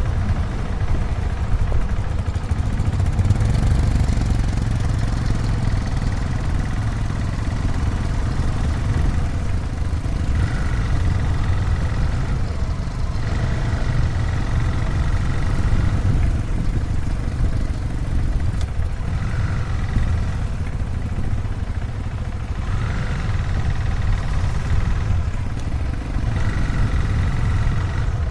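Motorcycle engine running steadily with a heavy low rumble, while a faint high whine comes and goes from about ten seconds in.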